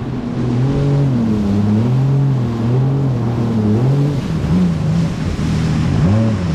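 Jet ski engine running under way, its note rising and falling repeatedly as the throttle is eased on and off, over a steady rush of wind and water.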